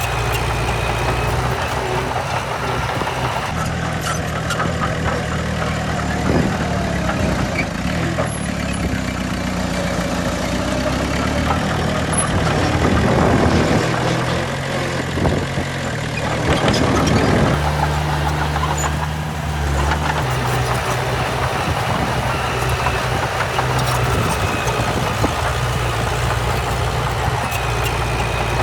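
Heavy diesel earthmoving machinery running, a steady low engine drone. In the middle the engine revs rise and fall a few times under load.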